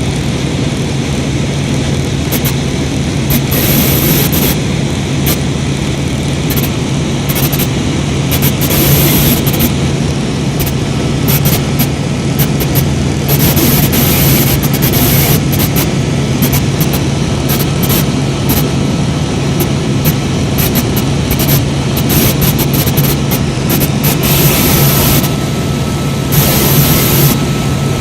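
Helicopter in flight, its engine and rotor making a loud, steady drone with a constant low hum.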